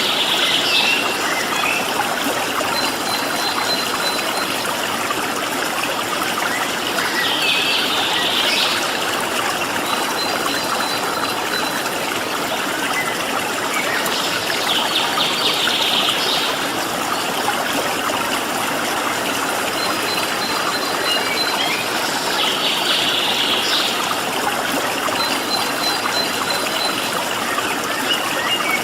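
Steady rush of flowing stream water, with a songbird's short burst of song about every seven to eight seconds and thin high trills between the bursts.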